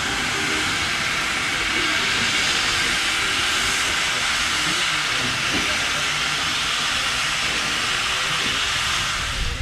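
Narrow-gauge steam locomotive letting off steam: a steady hiss.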